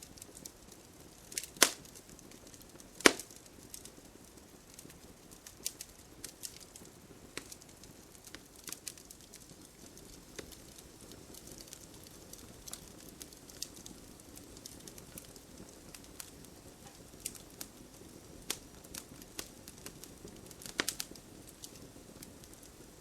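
Wood campfire burning: a low steady rumble of flames with scattered crackles and sharp pops, the two loudest pops in the first few seconds and a quick cluster near the end.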